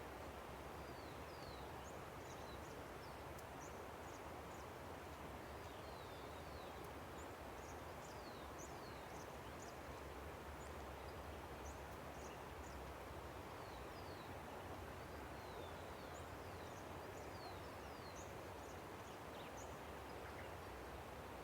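A river flowing steadily, with many short, high bird chirps and quick falling whistles scattered over it.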